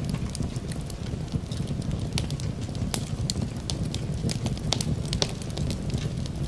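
Fireplace wood fire crackling, with many irregular sharp pops over a steady low rumble.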